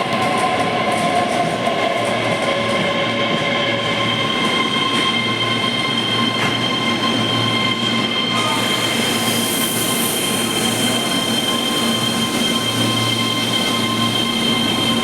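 Keihan 3000 series electric train pulling into the station. There is a steady rumble with several high, sustained squealing tones, and a whine that falls in pitch over the first few seconds as the train slows.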